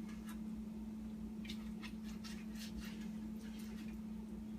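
A knife dicing raw chicken breast on a cutting board: soft, irregular cuts and taps against the board, over a steady low hum.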